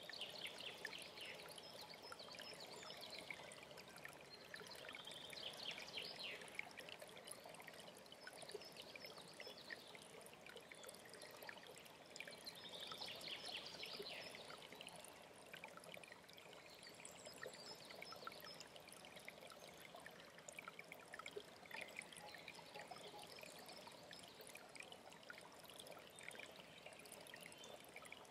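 Faint mountain stream trickling steadily, with songbirds singing now and then over it.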